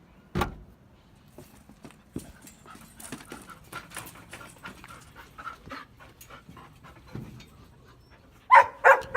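A dog panting, with a single sharp knock about half a second in and a few loud barks near the end.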